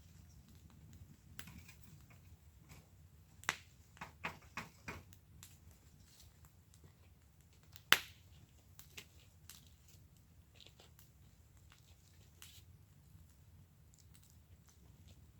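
Wood fire in a fire pit crackling, with scattered sharp pops over a low steady rumble. There is a quick run of pops about a third of the way in, and the loudest single pop comes about halfway.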